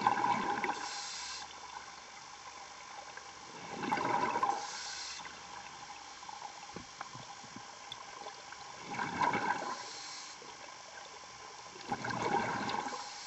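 Scuba diver breathing underwater through a regulator: four breaths a few seconds apart, each a gush of air and bubbles.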